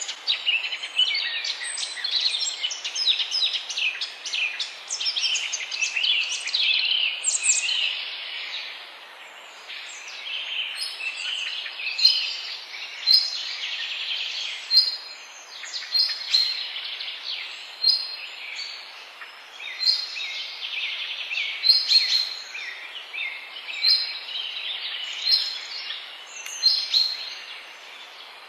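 Many birds singing at once, a dense chorus of chirps and trills over a steady background hiss. From about twelve seconds in, one short call stands out, repeated every second or two.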